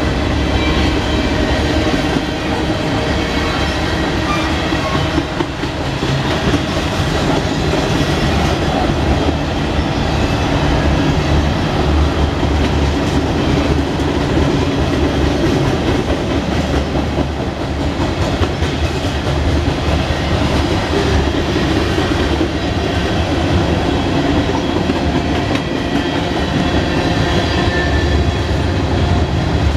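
Freight cars of a Norfolk Southern mixed freight train rolling steadily past: covered hoppers, boxcars, tank cars and gondolas, their wheels rumbling on the rails.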